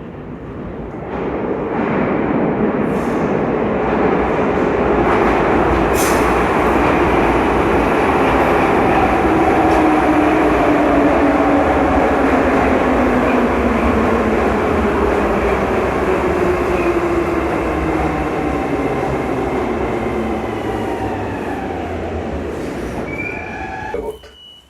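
81-722.1 series Saint Petersburg metro train running through the tunnel, heard from inside the car: a loud, steady rumble of wheels on rail, with whining tones that slowly fall in pitch as the train slows. The noise builds over the first two seconds and cuts off sharply near the end.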